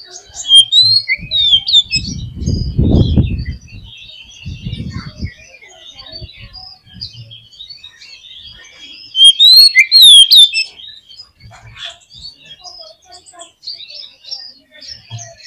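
Oriental magpie-robin (kacer) singing: loud bursts of sweeping whistled phrases near the start and again about ten seconds in, with scattered chirps in between. A low rumble sounds about two to three and a half seconds in, and more faintly near five seconds.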